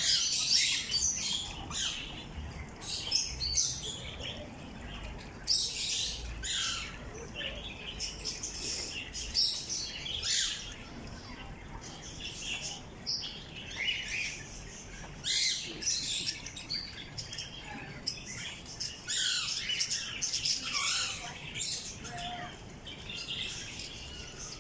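Aviary birds calling: many short, high calls overlapping at irregular intervals.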